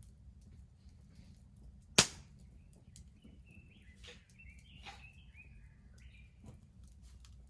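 Wood bonfire crackling, with one loud sharp pop about two seconds in and a few smaller crackles after it. A bird sings a short chirping phrase in the background near the middle.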